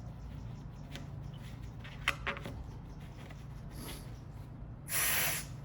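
Aerosol brake cleaner sprayed in a short burst about five seconds in, with a fainter brief spray a second earlier and a few light clicks in between.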